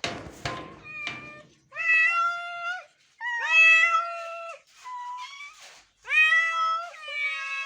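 Several hungry cats meowing in long calls of about a second each, one after another, with two calls overlapping near the end. A short noisy scrape with a few clicks comes at the very start.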